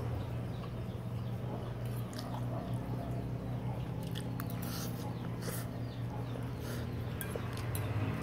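A person chewing and biting food, with scattered short crisp clicks over a steady low hum.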